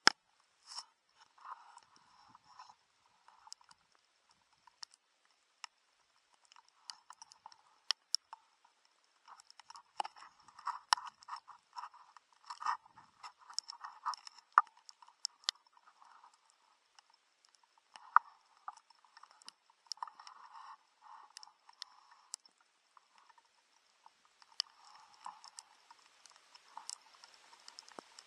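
Footsteps crunching and scuffing through ground litter in irregular runs, with a few pauses and scattered sharp ticks and snaps. A faint steady high whine sits beneath.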